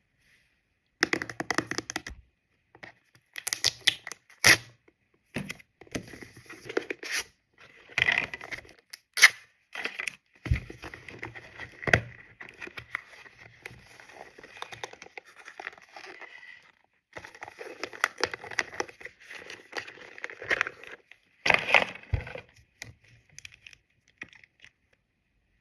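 Close-up handling of skincare product containers and packaging: irregular bursts of clicks, taps, scraping and crinkling, with a few sharp knocks.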